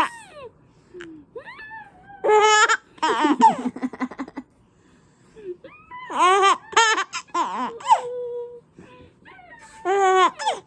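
A baby of about five or six months laughing in three bursts of high-pitched, rapidly pulsing laughter, with short quiet pauses between them.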